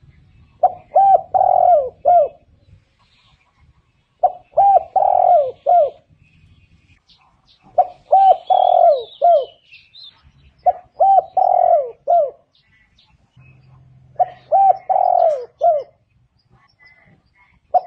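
Spotted dove cooing: a phrase of four or five low, swooping coos, repeated five times at a steady pace about every three and a half seconds. Faint high chirps of another small bird come in once about halfway through.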